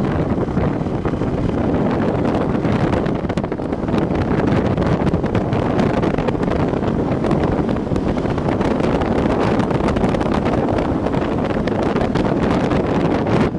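Heavy wind rushing and buffeting on the microphone of a moving motorcycle, a loud, steady roar with riding noise underneath.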